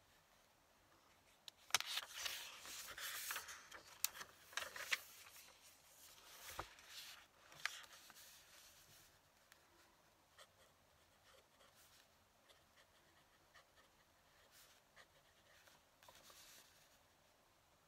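Fountain pen nib scratching across paper in short, quick strokes with little clicks, busiest from about two seconds in until about nine seconds, then only faint scattered ticks.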